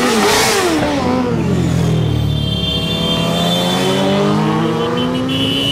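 Motorcycle engine running, its pitch dropping over the first second or so and then climbing steadily as it revs up, with a thin high whine joining in the second half.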